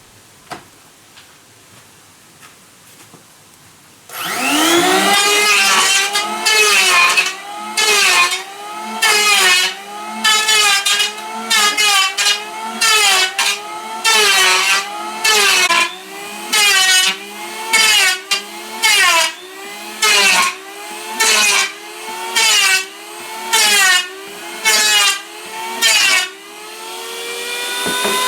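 A power tool starts about four seconds in, its motor spinning up fast and then running loud, with the pitch sagging and recovering about every second and a quarter as if repeatedly put under load, and rising again near the end.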